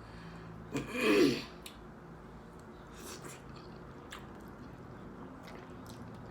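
A short, loud noise from a person's throat and mouth about a second in, then quiet chewing with a few faint wet mouth clicks as she eats.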